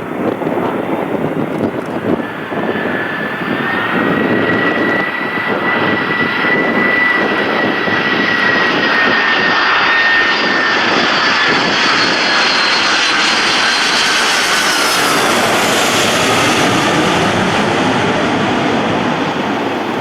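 Jet airliner passing close by: a loud rush of engine noise that builds to a peak about halfway, with a high engine whine that holds and then drops in pitch as the aircraft goes past.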